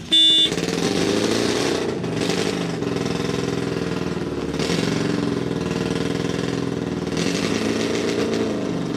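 Streamliner C-16's straight-16 engine, built from two Buick straight-eights joined end to end, idling steadily at a standstill. A short, loud horn toot comes right at the start.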